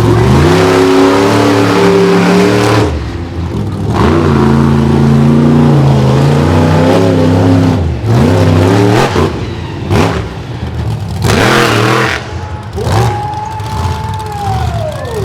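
Monster truck engine revving hard over and over, its pitch rising and falling with the throttle and dropping away briefly several times.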